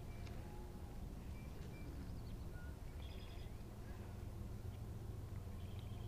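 Birds giving a few short, high chirps, faint, over a low steady wind rumble on the microphone.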